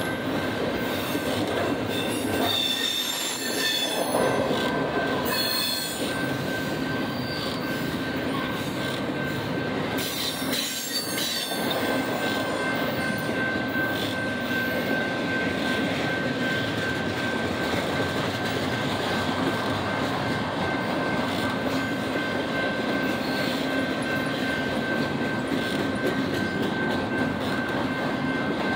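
Doublestack intermodal well cars rolling past on steel wheels, a steady rumbling clatter with a thin high wheel squeal held throughout.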